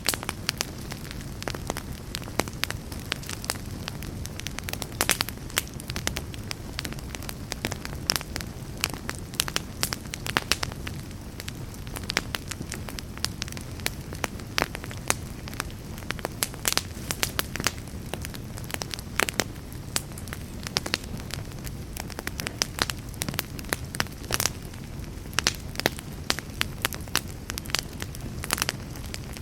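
Campfire burning, with a steady low rumble under frequent sharp crackles and pops.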